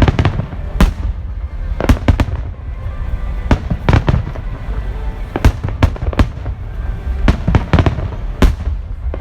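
Aerial fireworks shells bursting in an irregular barrage: about a dozen sharp bangs, some in quick pairs and clusters, over a continuous low rumble of echoing detonations.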